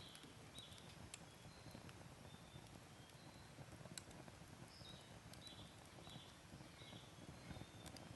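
Wood fire burning in a Picogrill 498 stainless fire pit: a soft low rumble of flames with scattered sharp crackles and pops, and several short high chirps.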